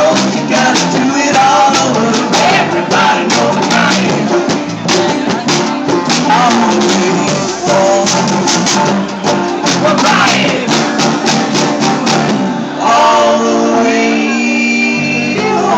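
A band playing, with singing over fast percussion hits such as tambourine. About thirteen seconds in, the percussion stops and steady held notes ring on.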